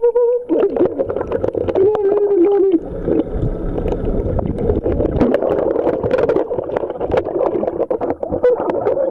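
Pool water sloshing and gurgling around a microphone dipped underwater, full of small clicks and bubbling. A few short, muffled pitched sounds come through it, near the start, around two seconds in and near the end.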